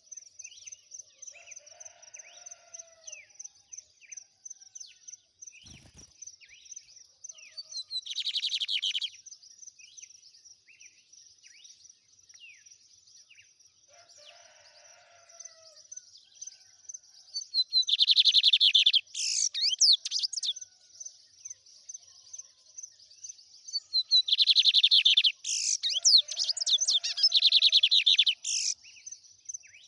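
Lined seedeater (bigodinho) singing its 'trem bala' song type: loud phrases of very rapid trills and quick sweeping notes, one about 8 seconds in and two longer ones later, with softer chirps between. A steady fast high ticking runs underneath.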